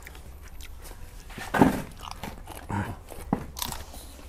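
Close-up eating sounds: people biting and chewing grilled pork intestines and raw vegetables, a few separate bites with the loudest about a second and a half in.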